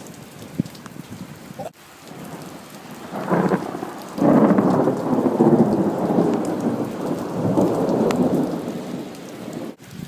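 Thunder rumbling over steady rain. The rumble starts about three seconds in, turns loud a second later and dies away near the end.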